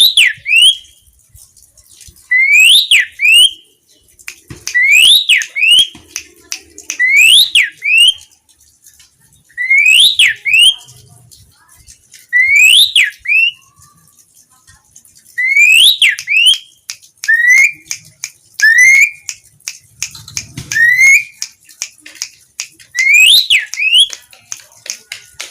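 Asian pied starling (jalak suren) singing: loud whistled phrases that sweep up and down, repeated every two to three seconds, mixed with sharp clicks and chatter.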